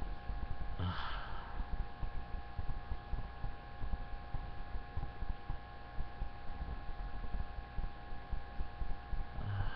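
A steady hum of several fixed tones over low, irregular rumbling, with a short breathy sound about a second in.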